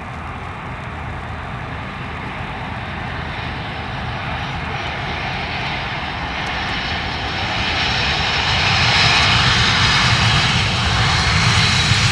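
Fixed-wing aircraft engine, a steady noisy drone that grows louder as the plane approaches and is loudest over the last few seconds.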